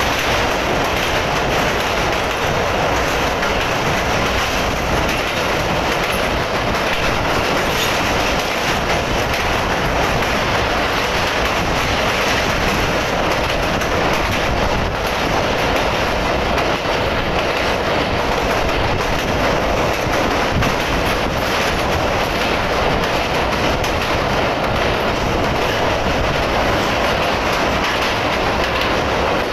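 Pakistan Railways passenger coach running at speed: a steady rumble and clatter of its wheels on the rails, heard at the coach's side.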